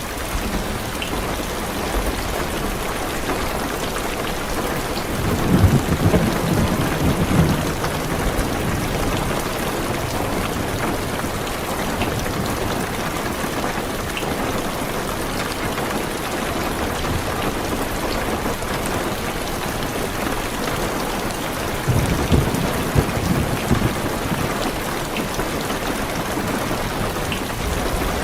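Heavy rain drumming steadily on a car's roof and windows, heard from inside the car. Low thunder rolls twice, about five seconds in and again about twenty-two seconds in.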